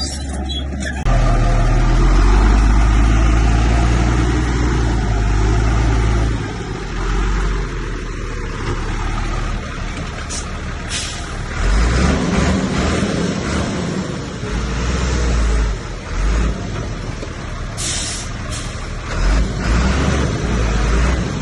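Heavy diesel earthmoving machinery running under load. The engine swells about a second in and rises and falls throughout, with a few short bursts of air hiss near the middle and again near the end.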